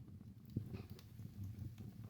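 Wood fire in a fireplace crackling: a low flutter of burning flames with scattered small snaps, and one stronger pop about half a second in.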